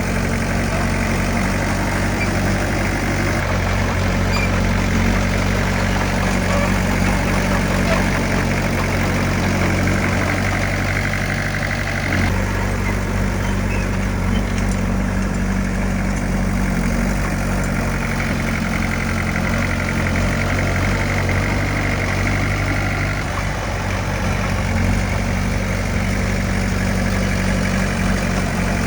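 Heavy diesel engine of earthmoving equipment running steadily at a constant pitch, with a slight shift in tone about twelve seconds in.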